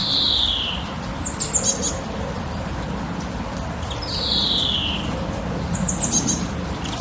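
Songbirds calling: a quick run of high falling notes twice, and a longer whistle that slides down in pitch twice, over a steady low background noise.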